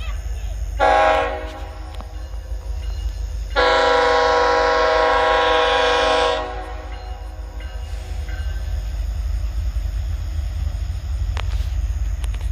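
Diesel locomotive air horn sounding two blasts, a short one about a second in and then a long one of nearly three seconds, over a steady low rumble.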